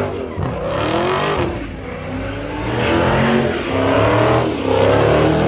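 Car doing a burnout: the engine revs hard, rising and falling in pitch again and again, over the noise of the spinning tyres.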